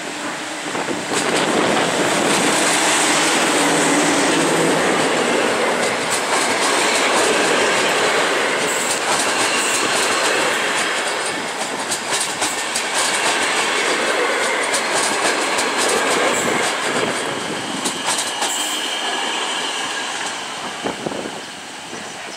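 PKP Class EP09 electric locomotive and its passenger coaches rolling past as the train pulls into the platform: a loud rumble that swells about a second in, with wheels clicking over rail joints. Thin, high wheel squeal joins in during the second half.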